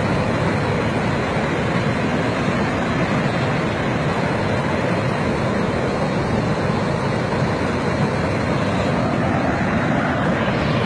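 Flash-flood water rushing down a wadi: a loud, steady rush of churning water with no let-up.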